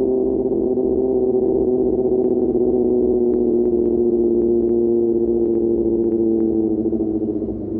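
QJ Motor SRK600 inline-four engine running at steady revs through an SC-Project exhaust under way, with a smooth, even note that eases slightly in pitch near the end as the revs drop.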